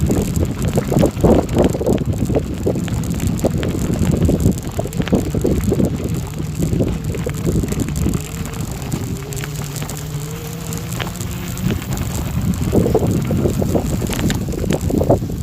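Wind buffeting the microphone over a steady, rough rumble of tyres rolling on a gravel forest road, with irregular knocks and rattles.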